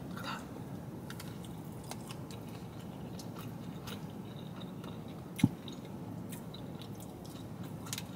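Quiet chewing of a loaded hash brown tot, with faint mouth clicks and one sharper click a little past halfway, over a steady low hum.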